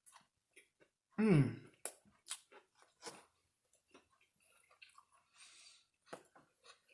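A person chewing a mouthful of fried chicken and donut sandwich, with scattered wet mouth clicks. About a second in comes a short hum that falls in pitch, a pleased "mmm".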